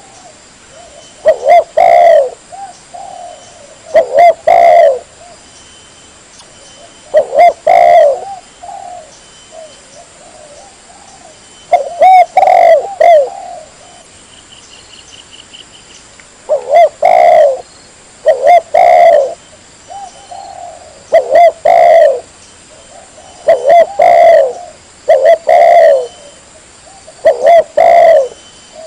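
Spotted dove (tekukur) cooing loudly and close: a run of short two- to three-note coo phrases, about one every two to three seconds, with a longer pause about a third of the way through. Softer coos fall between the loud ones.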